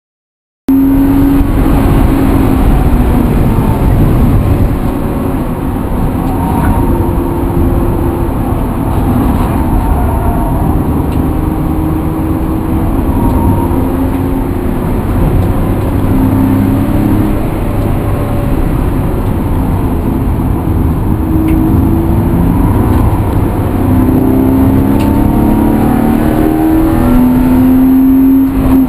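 A vehicle engine running under way, its note repeatedly rising and dropping in pitch over a steady low rumble. It cuts in suddenly less than a second in.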